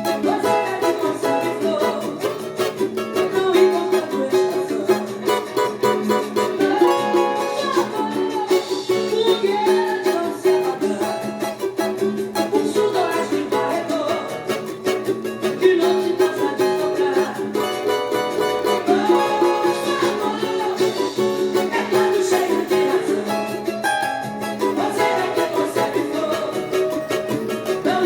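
Cavaquinho strumming samba chords in C-sharp minor through an instrumental passage, with a continuous rhythmic strum.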